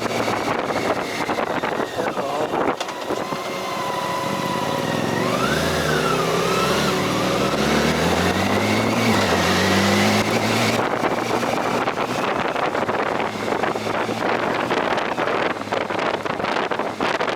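Motorcycle engine running under way, its pitch rising and falling with throttle and gear changes through the middle, with wind rushing over the microphone.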